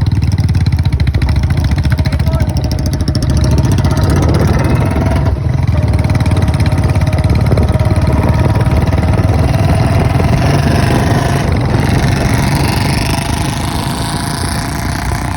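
Royal Enfield Bullet's single-cylinder engine running steadily, easing off slightly near the end.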